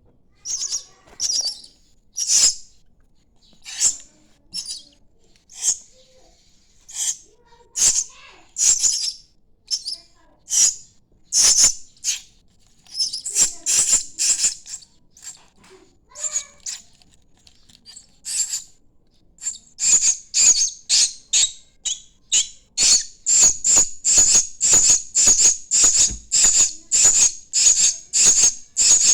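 Starling chick calling with short, harsh, rasping calls, the begging calls of a hand-reared nestling. They come singly with gaps at first, then settle into a steady run of about two a second from about twenty seconds in.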